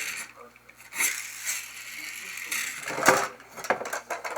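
Pull-back motor of a plastic toy dune buggy whirring and ratcheting as its wheels are wound against a table. Several sharp plastic knocks, the loudest about three seconds in.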